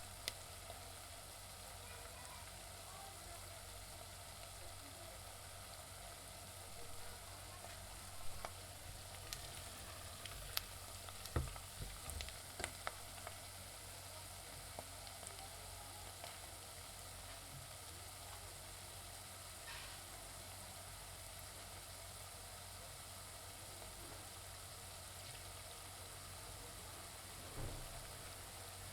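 Onions frying in oil in a pan, a steady sizzle, with a cluster of sharp clicks and knocks about ten seconds in and another near the end, as the onions are stirred.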